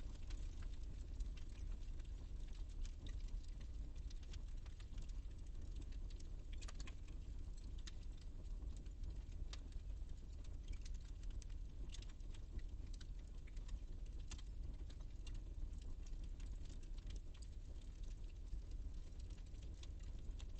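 Wood fire in a fireplace burning with a steady low rumble, dotted with irregular crackles and sharp pops from the burning logs.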